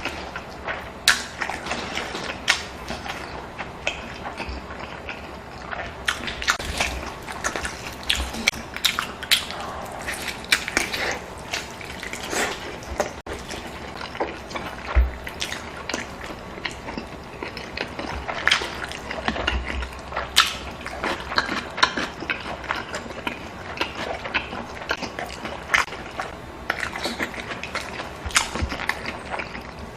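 Close-miked eating: wet chewing, smacking and mouth clicks come irregularly throughout, along with a few low bumps.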